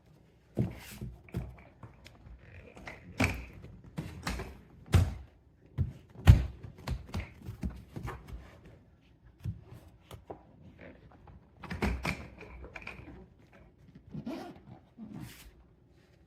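Hard-shell suitcase being handled: a run of irregular knocks and thunks, the loudest about six seconds in.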